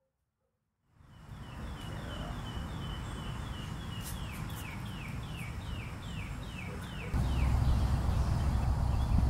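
A songbird singing a run of about sixteen quick whistled notes, the first few level and the rest sliding downward, over a low outdoor rumble that gets louder about seven seconds in.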